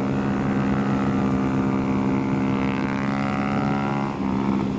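Honda Grom's 125 cc single-cylinder engine running at a steady speed, its pitch barely changing, with a brief drop near the end.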